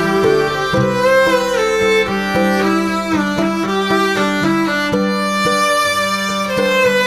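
Instrumental music: a violin plays a melody with sliding notes over a held low note, with plucked strings keeping a steady pulse.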